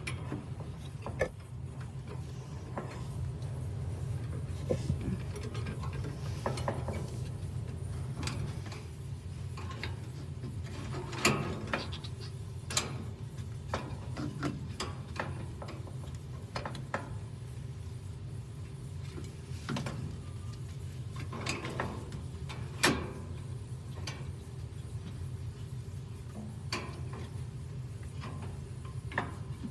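Scattered clicks and knocks of metal parts and tools being handled while a washing machine's drive motor is fitted back in, with a few louder knocks spread through, over a steady low hum.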